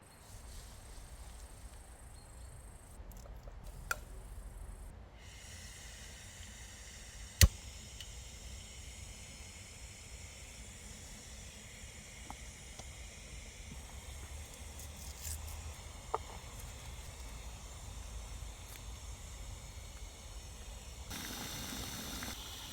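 Steady hiss, as of a camping gas stove burner, starting about five seconds in, over a low rumble, with a few sharp clicks; one loud click about seven and a half seconds in is the loudest sound, and a louder rushing noise comes in near the end.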